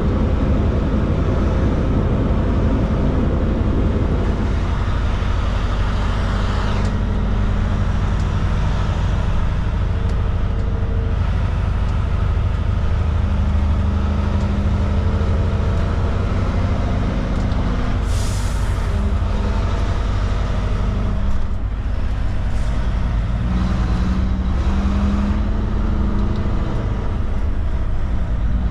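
Heavy truck's diesel engine running under way, its pitch shifting up and down as it pulls along. About 18 seconds in there is a brief hiss of air.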